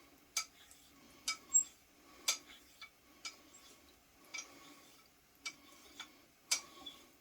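A 6/8 quarter-hollow straight razor drawn in reverse laps on a finishing whetstone, raising a wire on the edge: faint swishing strokes, each broken by a sharp click as the razor is flipped and the spine taps the stone, about eight clicks at uneven spacing.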